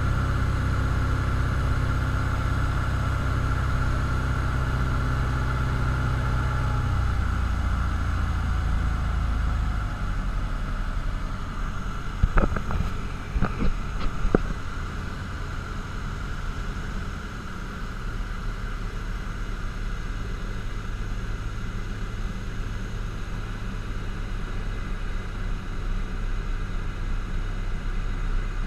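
Cessna 172's piston engine heard inside the cabin, running steadily, then throttled back about seven seconds in so the drone falls lower and quieter. A few sharp knocks come a few seconds later, then the engine runs on at low power.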